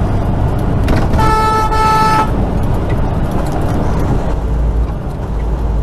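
A vehicle horn sounds once, a steady pitched blast lasting about a second, over the continuous low rumble of engine and road noise.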